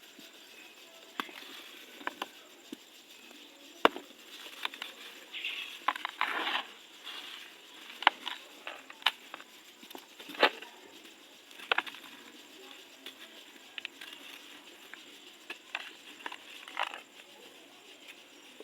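Dry, dusty crunchy material being crumbled in a tub: irregular sharp snaps and short gritty crunches, with a longer crunching stretch about six seconds in.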